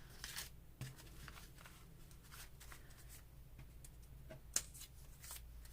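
Faint rustling and light taps of paper being handled, with one sharper click about four and a half seconds in.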